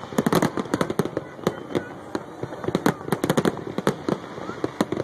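Aerial firework shells bursting in a dense barrage: rapid sharp bangs and crackles, thickest just after the start and again around the middle, with single reports between.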